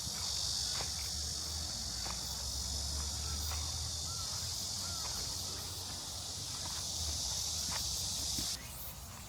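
Steady high-pitched buzzing chorus of cicadas in the trees, cutting off suddenly near the end, with a few faint clicks.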